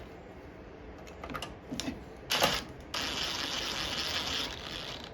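Socket ratchet clicking as an 8 mm bolt is run in: a few separate clicks, a louder short rasp, then a steady stretch of fast ratcheting.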